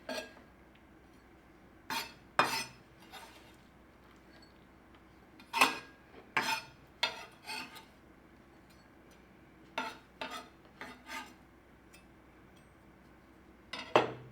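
Kitchen utensils and dishes clinking and knocking against each other, in short separate strikes that come in small groups a few seconds apart.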